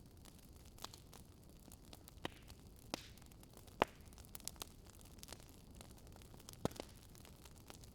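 Wood fire crackling: irregular sharp pops and snaps over a faint low hiss, the loudest pop a little before halfway.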